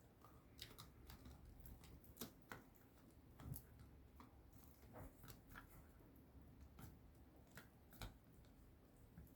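Faint, irregular clicks and crunches of a puppy gnawing on a dog chew.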